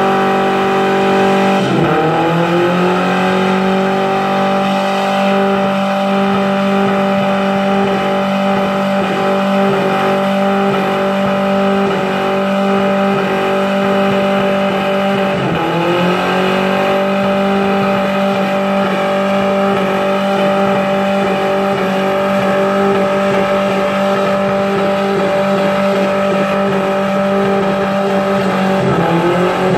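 A minivan's engine held at high revs in a burnout, its drive tyres spinning and smoking on the pavement. The revs drop briefly and climb back three times: about two seconds in, about halfway, and near the end.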